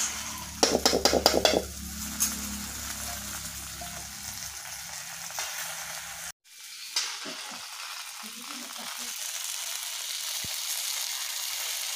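Okra frying in oil in a metal kadhai, with a steady sizzle. About a second in, a metal spatula scrapes and clatters against the pan in a quick run of strokes as the okra is stirred.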